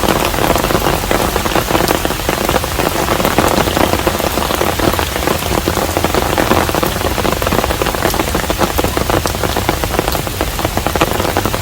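Steady rain falling on a traditional Korean hanok house: an even, dense patter of drops that keeps on without a break.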